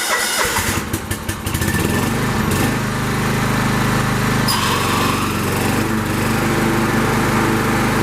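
John Deere 265 lawn tractor engine being started: it cranks unevenly, catches about two seconds in, and then runs steadily, its pitch shifting about halfway through.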